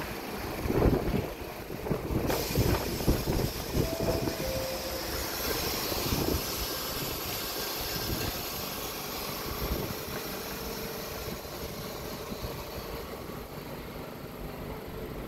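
Staten Island Railway R44 train at a station platform: a steady rumble and hiss, with several heavy knocks in the first three seconds and two short tones about four seconds in.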